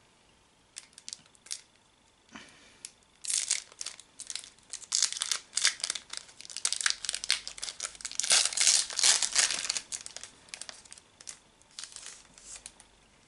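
Foil wrapper of a Pokémon trading-card booster pack being torn open and crinkled by hand. A few light clicks come first, then dense crinkling that is loudest about two-thirds of the way through and thins out near the end.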